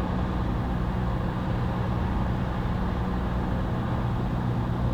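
Cessna 172's piston engine and propeller droning steadily, heard inside the cabin, at reduced power of about 1500 RPM for the descent.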